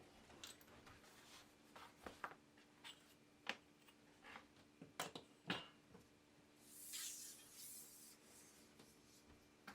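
Small leatherworking hand-tool noises on a bench: scattered light clicks and taps, then a scraping stroke across the leather about seven seconds in.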